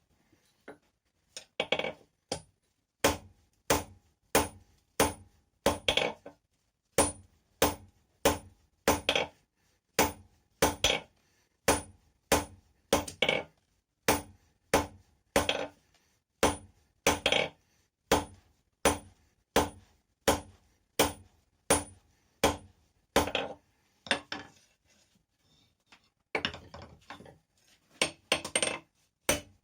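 Blacksmith's hand hammer striking hot steel on an anvil, blows coming at about two a second, each with a short metallic ring. The blows stop briefly about 24 seconds in, then resume in a quicker run.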